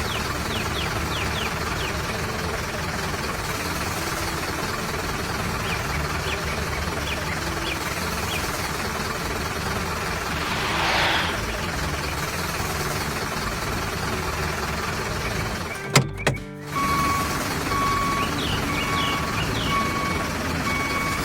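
Cartoon soundtrack of background music layered with a steady vehicle engine sound effect. After a short break about sixteen seconds in, a repeating electronic beep sounds over it.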